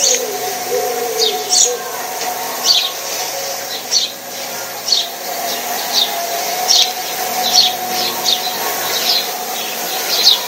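A small bird chirping repeatedly, short high chirps about once a second, over a steady hum.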